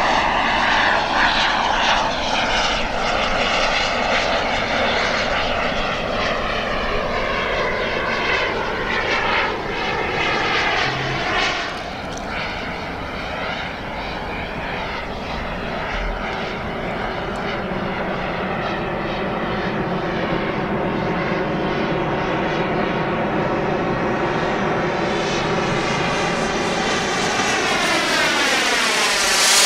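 Radio-controlled model jet's turbine engine running in flight, a steady jet noise that shifts and sweeps as the aircraft moves about the sky. The sound swells and sweeps sharply as it makes a close pass near the end.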